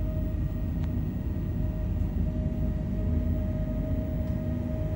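Inside a PKP Intercity passenger carriage: a steady low rumble with a constant hum tone from the train's equipment.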